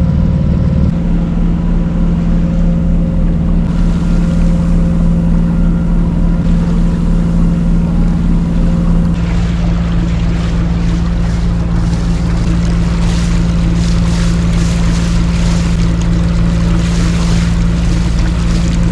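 A boat's engine running steadily under way, a loud low drone. About nine seconds in the sound shifts and a rushing hiss of wind and water joins the engine.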